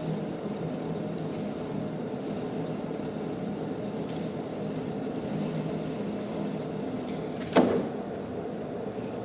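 Manual metal lathe running steadily while threading a large bolt, a constant machine hum. About three quarters of the way through comes a single sharp knock with a short ring, and the high whine drops away after it.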